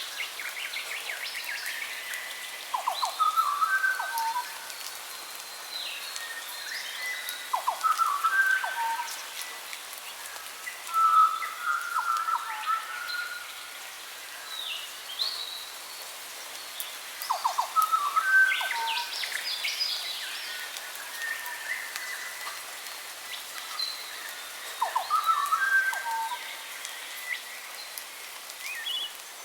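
Several songbirds singing and calling in repeated bouts of chirps, quick falling sweeps and short whistles, over a steady hiss.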